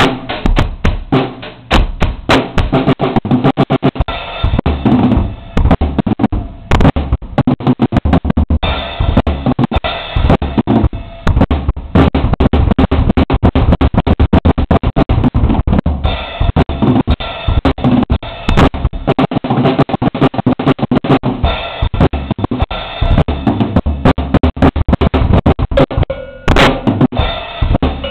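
Drum kit played without a break: a dense, fast stream of bass drum and snare hits with cymbals, picked up by a low-quality camera microphone.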